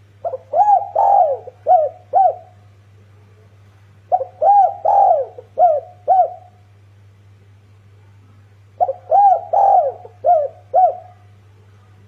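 Spotted dove (dekukur) cooing: three phrases about four seconds apart, each a run of about five notes, the first ones drawn out and the last two short.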